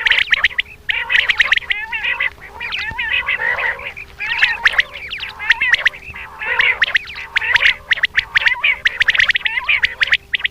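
Common quail calling, a dense run of rapid, sharp calls that overlap almost without pause, with a faint steady hum underneath.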